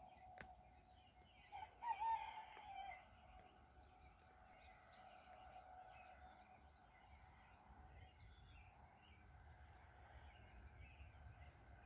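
Faint birdsong: many small scattered chirps, with one louder wavering call about two seconds in, over a faint steady hum.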